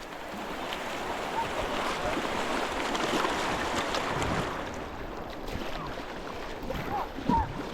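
River water rushing, a steady noise that swells over the first few seconds and eases off after about four and a half seconds.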